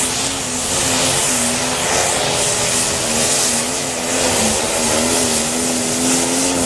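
Modified pulling tractor's engine running hard during a pull, a loud steady drone that wavers slightly in pitch over a strong hiss.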